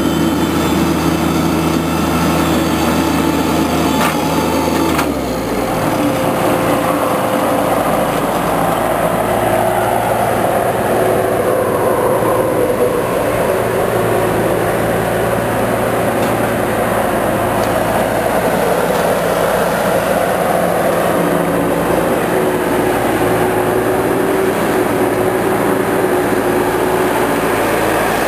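Engine of machinery running steadily, its note dropping and settling lower about five seconds in.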